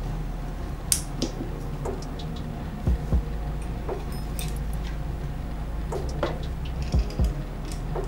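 Light clicks and taps of a bicycle rear derailleur and its pulley cage being handled and fitted together, over a steady low hum with two pairs of dull low thumps.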